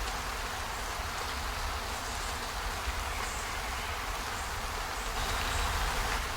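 Steady rain-like hiss of a relaxation ambience recording over a low rumble, with faint scattered ticks.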